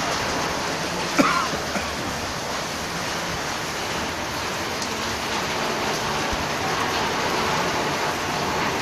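Heavy rain mixed with hail pelting down, a steady dense hiss, with one sharp knock about a second in.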